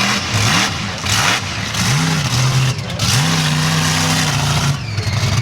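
Bigfoot monster truck's engine revving: the pitch rises and falls in several quick revs, then holds at higher revs for over a second before dropping near the end.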